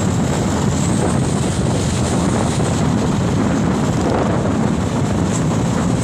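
Truck engine running steadily, mixed with wind buffeting the microphone.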